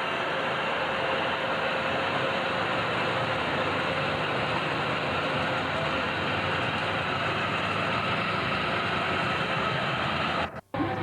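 Tractor engine running steadily with an even drone that cuts off abruptly near the end.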